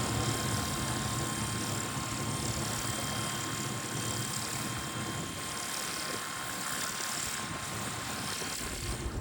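An engine running steadily: an even rushing noise with a constant thin whine over a low hum, unchanging until it cuts off at the end.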